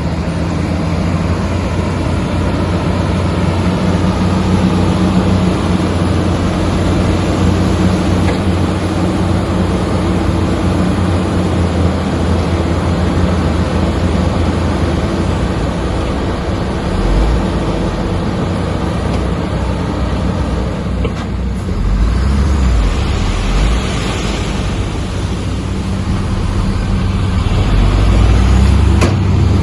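Heavy diesel engine of earthmoving machinery running steadily. Deeper rumbling swells come in a few times in the second half, and it is loudest near the end.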